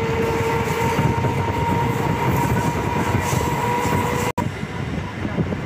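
Train running along the track, heard from on board: a rumbling wheel-and-rail noise with a steady high whine. About four seconds in, it breaks off in a sudden dropout and comes back as quieter running noise.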